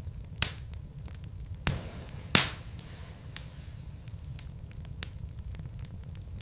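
Logs burning in a fireplace: sharp pops and crackles from the wood over a steady low rumble of the fire. Three loud pops come close together in the first two and a half seconds, the last of them the loudest, then scattered smaller cracks.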